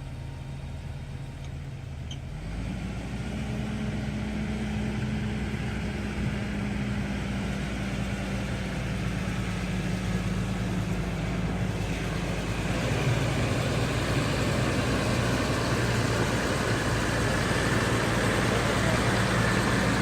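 Challenger MT665D tractor's diesel engine running, its pitch stepping up about two and a half seconds in and growing louder and rougher from about twelve seconds in.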